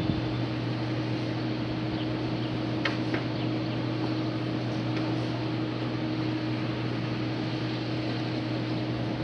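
An engine running at a steady speed, a constant even hum with a few faint ticks about three seconds in.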